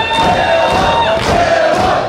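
Arena crowd chanting and cheering, many voices together at a steady loud level.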